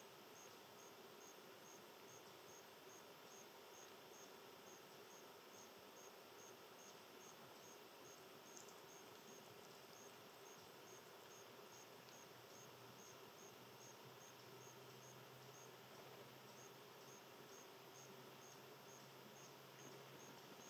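Faint, steady insect chirping outdoors: short high-pitched chirps repeating evenly about twice a second, over a soft background hiss.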